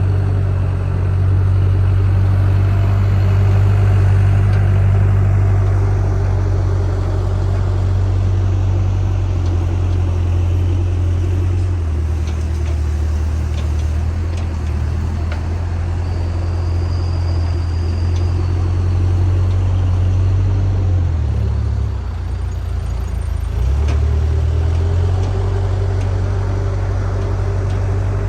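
JCB backhoe loader's diesel engine running steadily, its low drone stepping to a different pitch about halfway through and dipping and returning a few seconds later as the revs change.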